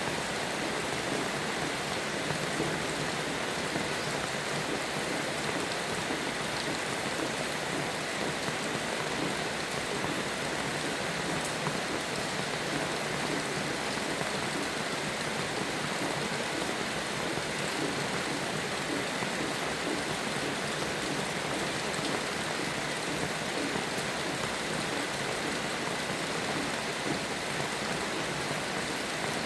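Steady rain falling, an even unbroken hiss of many drops with no thunder or birdsong standing out.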